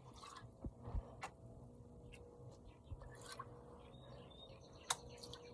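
Near-quiet background with a faint steady hum, broken by a handful of short, faint clicks and taps scattered through it; the sharpest comes near the end.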